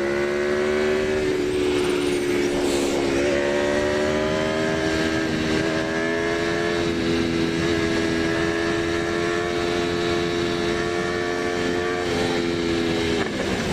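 Aprilia Tuono V4 1100RR's V4 engine running at steady cruising revs under way, with wind rush. The pitch dips slightly and then steps up about three seconds in, and dips and rises again near the end.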